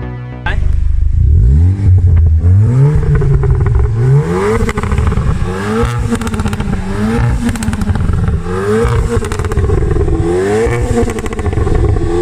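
VW Golf GTI exhaust with a Max Racing T Box aftermarket muffler, sounding as the engine is revved while stationary. It starts suddenly about half a second in with one longer climb in revs, then a string of quick throttle blips about once a second.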